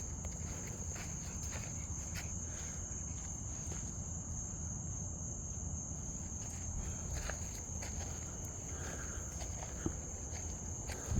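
Night insect chorus, a steady high-pitched trill that never lets up, with scattered footsteps on the trail.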